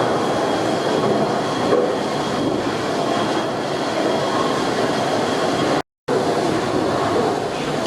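Fowler steam ploughing engine running with a steady mechanical clatter. The sound drops out for a moment about six seconds in.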